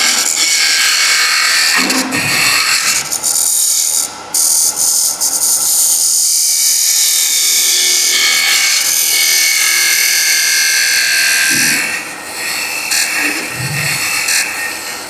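Wood lathe turning a spinning workpiece while a hand-held turning tool cuts into the wood, a loud steady hiss of the cut. It breaks briefly about four seconds in and eases off near the end.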